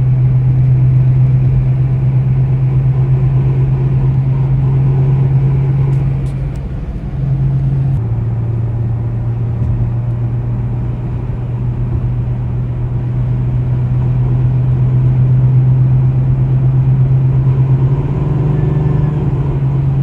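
A 2005 Ford Mustang driving, with a strong, steady low drone. The drone dips briefly about seven seconds in, settles a little lower about a second later, and grows again near the end. It is the unidentified drive noise the owner is trying to trace.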